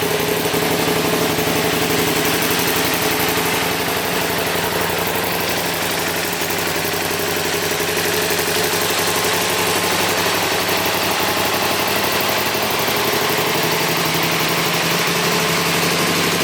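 KTM Super Duke 990's V-twin engine idling steadily, with no revving.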